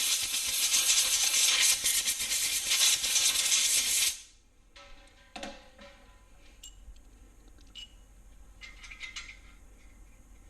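Compressed-air blow gun hissing as it blows debris off the threads of ARP main studs, then cutting off suddenly about four seconds in. A few light metallic clinks follow as the studs are handled.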